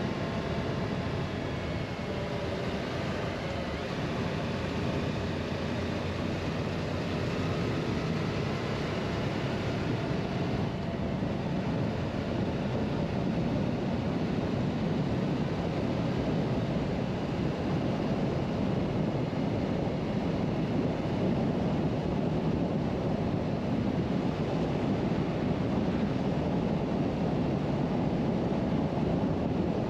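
Suzuki V-Strom 1050XT motorcycle being ridden at road speed: a steady rush of wind over the microphone and road noise, with the V-twin engine's hum underneath. It grows slowly louder across the stretch.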